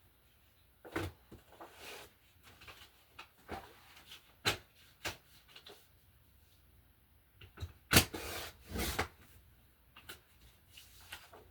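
Handling sounds at a craft desk: scattered light knocks and clicks of paper and tools being moved and set down, with one sharper knock about eight seconds in followed by a brief rustle.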